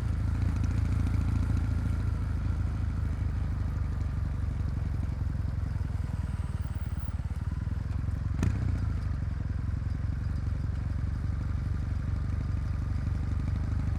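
Kawasaki W800's air-cooled parallel-twin engine running at a steady, low pitch, with one sharp click about eight and a half seconds in.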